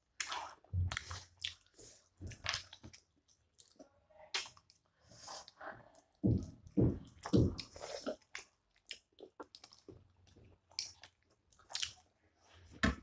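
Close-up eating sounds of two people chewing and biting on momos and pieces of buffalo leg eaten by hand: irregular short chewing and smacking noises, loudest in the middle.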